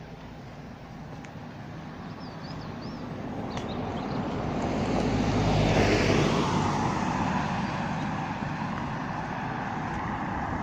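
A passing vehicle: a wide rumbling noise that swells to a peak about six seconds in and then fades away. A few faint bird chirps are heard near the start.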